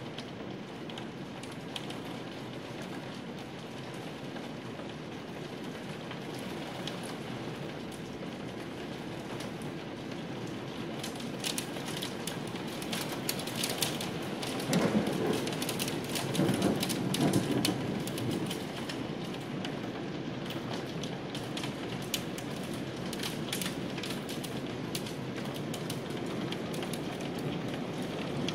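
Steady rain from a thunderstorm, with sharp drop hits. It grows louder for about three seconds just past halfway.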